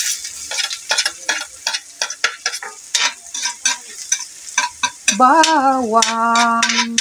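Chopped garlic sizzling in hot rendered pork fat in a steel wok, while a metal spatula stirs it with repeated clinks and scrapes against the pan. The hiss is strongest right at the start, just after the garlic goes in.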